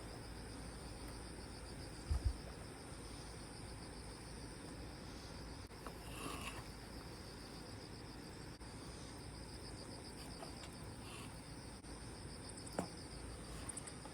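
Crickets chirping steadily, a continuous pulsing high-pitched trill with a second, higher song that drops out for a few seconds midway. A short low thump about two seconds in and a faint click near the end.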